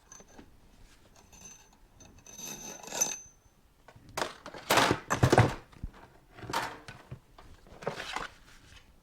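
Metal motorcycle fork parts being handled: a light ringing clink about three seconds in, then several louder rattling scrapes and knocks as the tube and its internals are moved about.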